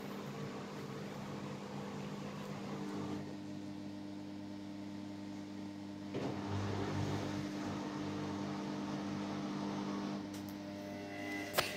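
Haier HW60-10636A washing machine running: a steady motor hum that changes in pitch and strength a few times, with a sharp click near the end.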